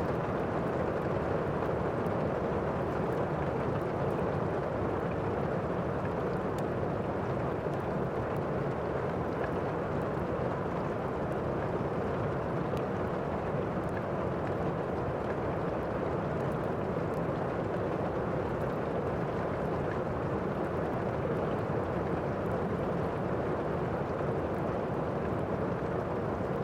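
Rain and fireplace ambience: a steady rush of heavy rain with faint, scattered crackles from a wood fire.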